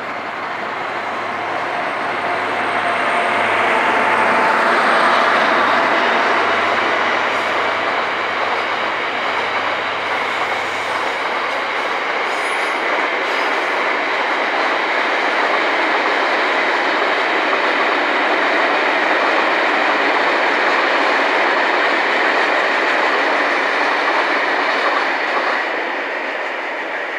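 Trains running through the station: a First Great Western passenger train and then a freight train of wagons, with wheels and rail clatter on the track. The sound builds over the first few seconds, holds steady, and eases off near the end.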